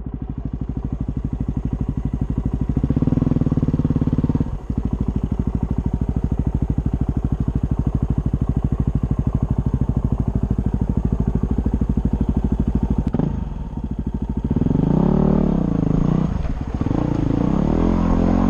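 Dirt bike engine idling with an even, steady pulse, then revved from about fourteen seconds in, its pitch rising and falling as the bike is ridden off.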